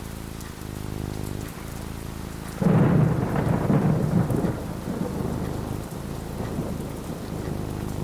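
Steady rain falling, then about two and a half seconds in a loud roll of thunder breaks in, a low rumble that peaks briefly and slowly dies away under the rain.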